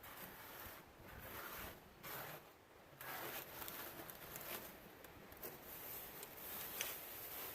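Short scrubbing strokes, one every second or so, with a sharp click near the end: cleaning work on the jeep's bodywork.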